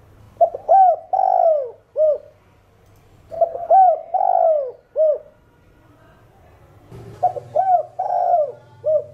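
Spotted dove cooing: three phrases of its call, each a couple of quick coos, one long drawn-out coo and a short final coo, repeated about every three and a half seconds.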